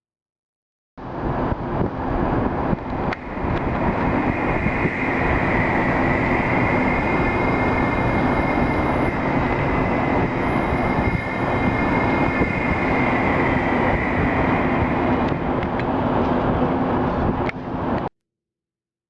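A loud, steady rumbling drone with a sustained high whine that bends slightly in pitch, starting abruptly about a second in and cutting off abruptly near the end; it is presented as a mysterious 'strange sound in the sky'.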